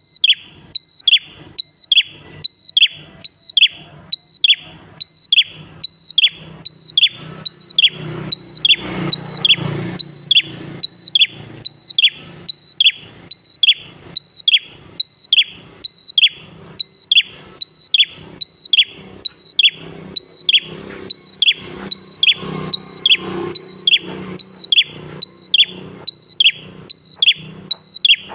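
Prenjak klawu singing one call over and over, about twice a second: a short high note and then a quick falling note.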